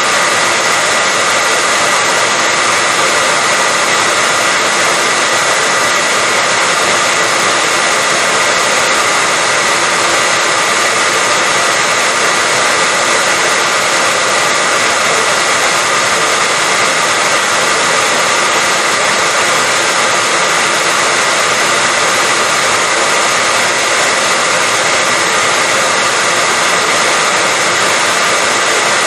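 Hair dryer running continuously: a steady rushing blow of air with a constant high whine from the motor, unchanging throughout.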